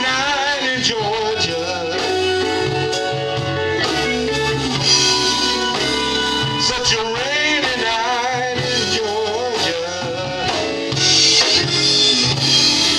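Live band playing a slow soul ballad with electric guitar, bass and drums, under a lead melody that wavers and bends in pitch.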